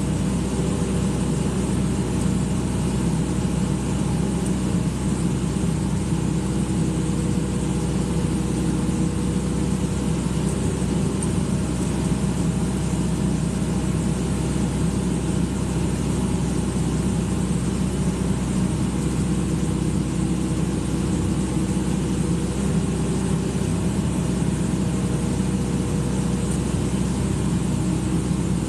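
Excavator's diesel engine running steadily at an even speed, with no revving or load changes.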